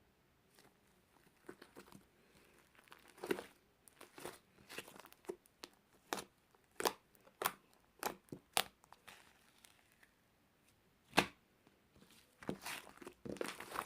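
A run of short, sharp crackles and clicks at uneven spacing, with a pause of about two seconds past the middle and a loud single crack just after it.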